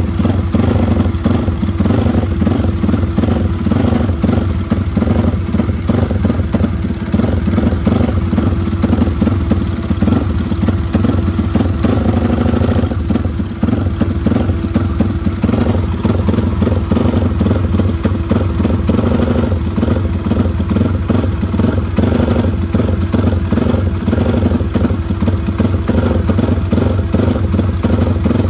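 Freshly built race-tuned Yamaha Vixion's single-cylinder four-stroke engine running steadily at a fast idle, with a rapid even firing beat and some mechanical clatter.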